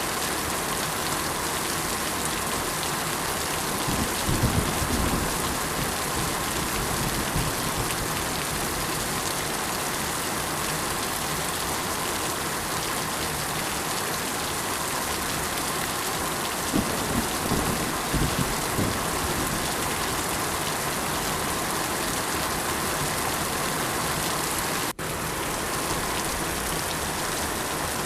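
Steady rain falling in an even hiss, with two brief low rumbles, one a few seconds in and one past the middle. The sound cuts out for an instant near the end.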